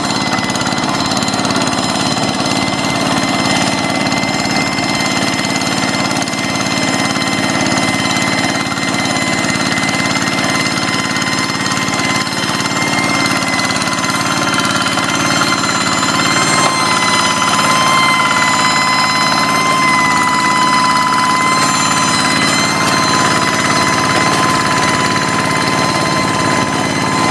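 Quick G3000 Zeva hand tractor's engine running steadily at work, with a steady high whine over the engine note that grows stronger from about halfway through.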